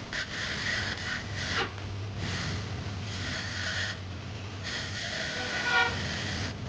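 Three long scraping strokes, each lasting a second or more with short gaps between, over a low steady hum.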